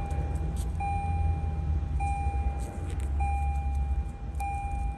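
Lexus RX's warning chime beeping over and over, one long beep about every 1.2 seconds, over a steady low hum from the car.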